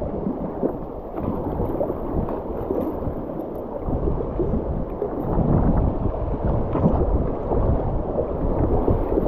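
River water rushing and splashing around a kayak as it runs a small rapid, growing louder about halfway through.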